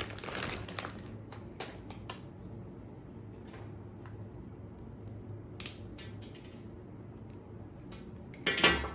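Scattered light metallic clicks and clinks of small parts and tools being handled, over a faint steady hum, with a short louder rustle near the end.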